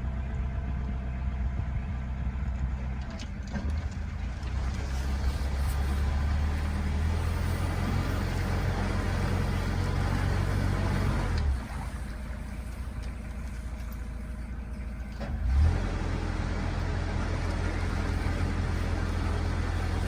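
Narrowboat engine running steadily under way, a low, even drone. About halfway through it drops off, then picks up again a few seconds later with a brief surge.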